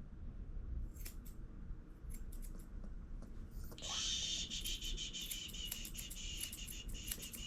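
Grooming scissors snipping a puppy's fur: a few separate snips, then from about four seconds in a steadier run of quick clicking cuts.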